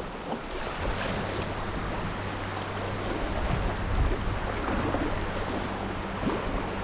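Steady rush of whitewater river current around a canoe, with a low rumble underneath.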